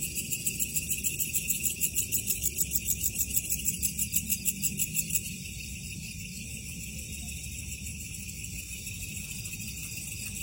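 Insects chirping in a fast, even pulse for about five seconds, then a steady high trill, over a low steady rumble.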